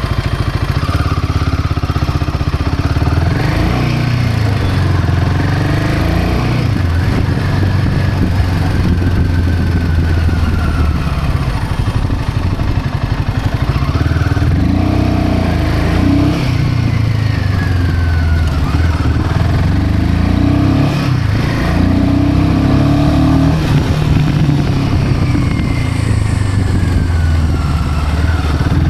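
Royal Enfield Himalayan 450's single-cylinder engine running loudly through its exhaust, the revs rising and falling again and again.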